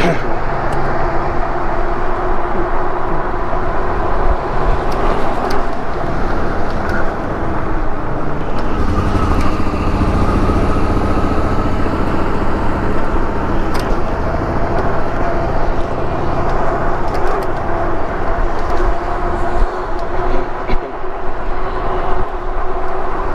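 Riding noise from a moving electric bike: a steady rumble of wind and road on the chest-mounted microphone, with a continuous whine whose pitch drifts slightly as the speed changes.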